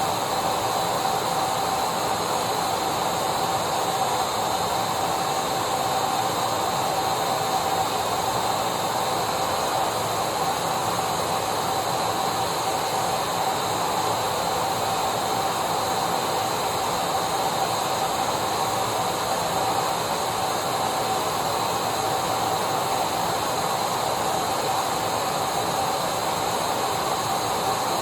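Electric vacuum cleaner running continuously: a steady rush of air with a constant whine that neither rises nor falls.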